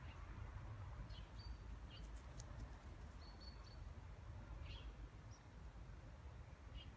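Faint outdoor ambience: a steady low rumble with scattered short, high bird chirps, and a few faint clicks about two seconds in.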